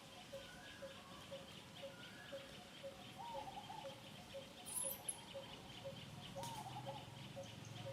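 Outdoor ambience of birds and insects calling: a call repeats steadily about twice a second under a fast, pulsing chirr. A few short squeaky calls come about three seconds in and again after six seconds, with a brief rustle in between.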